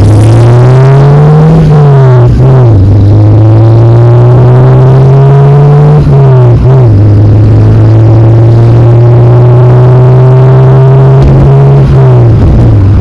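Car engine heard from inside the cabin, accelerating through the gears. Its note climbs, then drops sharply at each upshift about two and a half seconds in, about six and a half seconds in and near the end. Each climb is slower than the last.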